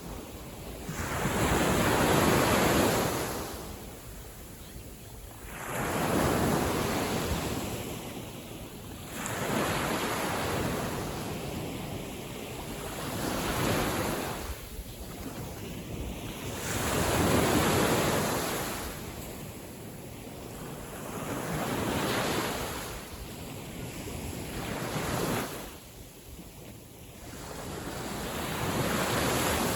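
Sea waves washing in on a calm day, a surge of surf about every four seconds.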